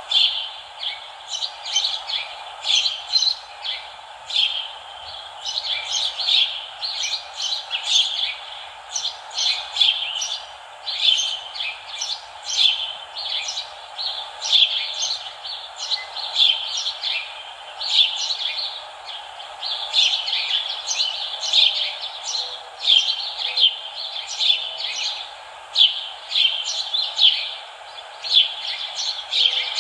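Songbirds chirping without a break, short repeated calls several times a second, over a steady even background noise.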